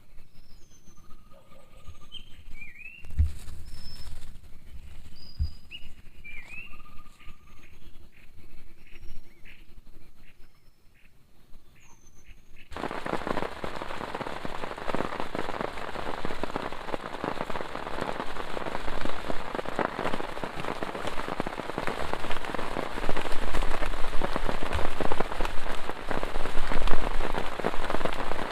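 Scattered bird chirps and whistles over quiet forest, with a couple of low thumps. About halfway through, heavy rain cuts in suddenly and keeps falling hard, dense with individual drop hits.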